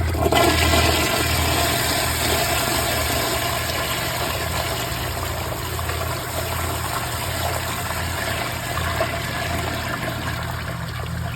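2018 Mansfield Summit dual-flush toilet flushing from an overfilled tank. A loud rush of water starts at once and is strongest in the first second or two, then settles into a long swirling rush in the bowl that slowly tapers off.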